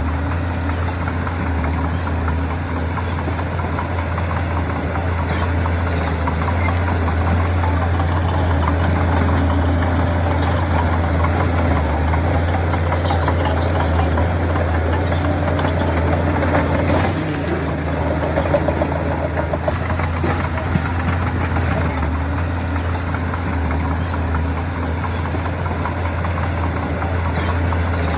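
Heavy diesel engine of a Shantui bulldozer running steadily at a low, even pitch, with a few sharp knocks about halfway through.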